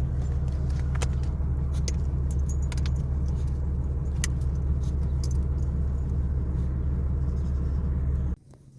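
Diesel semi-truck engine running steadily, a deep low hum, with scattered light clicks and rattles over it. The sound cuts off abruptly near the end.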